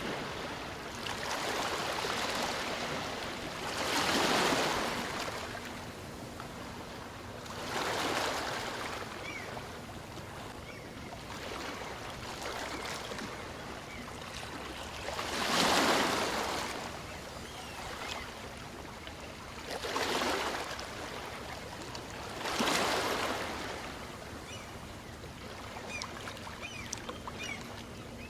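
Small waves from a calm sea breaking on the shore and washing back. The surf swells up about six times, every few seconds, and falls back between.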